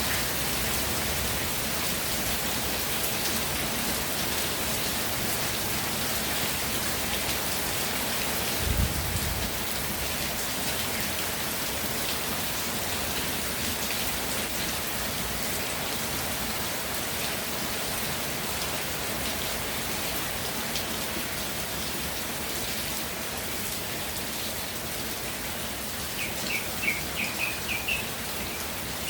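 Steady rain falling, with a brief low thump about nine seconds in. Near the end a bird calls in a quick run of about eight short chirps.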